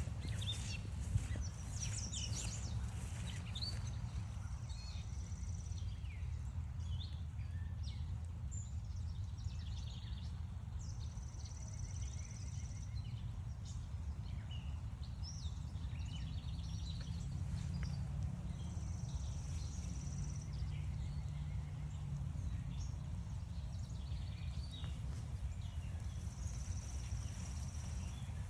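Songbirds singing in woodland. One bird gives a high, even trill about a second and a half long, four times at intervals of about seven seconds, among scattered short chirps from other birds. A steady low rumble runs beneath.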